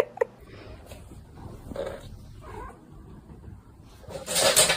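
A grumpy house cat, annoyed at being woken from its nap, makes faint low grumbling sounds, then lets out a loud, harsh cry near the end.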